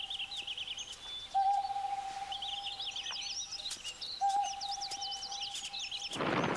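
Bird ambience: a long, steady whistled note, held about a second and a half and repeated every three seconds or so, over fast high chirping trills. Near the end a sudden loud burst of music breaks in.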